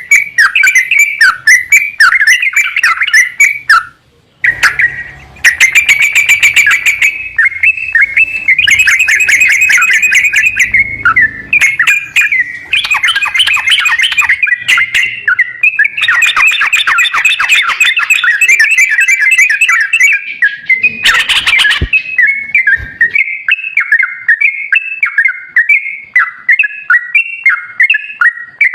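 Yellow-vented bulbul (trucukan) song: rapid, chattering phrases repeated almost without pause, with a short break about four seconds in. This is a lure recording played to prompt a caged bulbul that is reluctant to sing.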